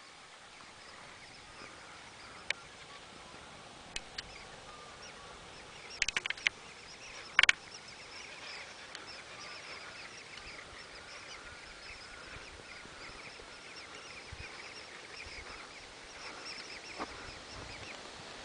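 A flock of birds calling, heard as a faint chatter of many short high calls that grows denser about halfway through. A few sharp clicks stand out in the first half.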